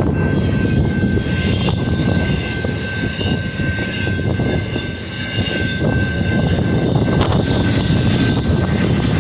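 Freight train passing close by: a loud, steady rumble of wheels on rail, with a thin steady high tone over it.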